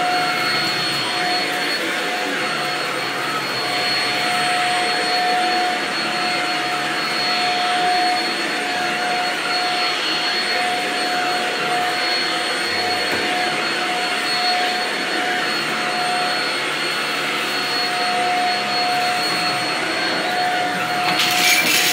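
Bagless vacuum cleaner running steadily over shag carpet, a steady whine over the rush of its suction, picking up leftover dirt. A brief clatter near the end.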